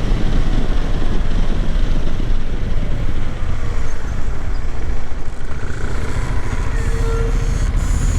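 KTM 390 Adventure's single-cylinder engine running while the motorcycle is ridden, with wind rushing over the microphone.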